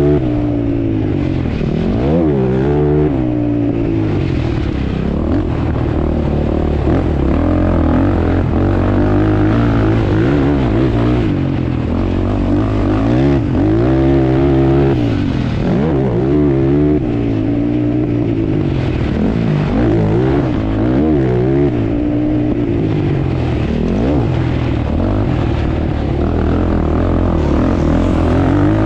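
ATV engine running hard under throttle, its pitch rising and falling again and again as it revs up and backs off.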